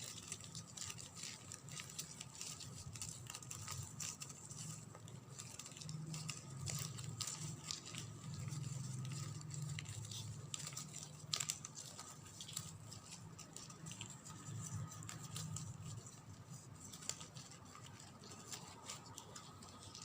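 Ribbon strands being handled and pulled tight by fingers: faint, irregular rustling and small ticks, over a steady low hum.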